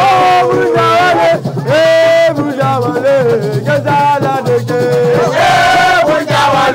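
Singing over music: a voice holds long notes that slide in pitch.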